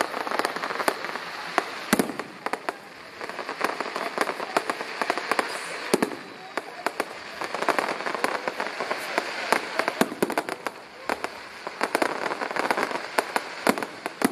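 Fireworks display: a rapid, continuous string of bangs from bursting aerial shells over dense crackling, with heavier bangs about two seconds and six seconds in.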